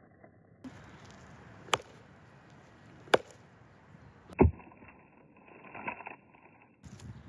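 Three sharp chopping knocks spaced about a second and a half apart, the last one the loudest.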